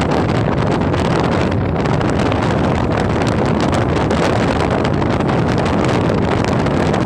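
Steady, heavy wind noise buffeting the microphone of someone riding a motorbike at speed.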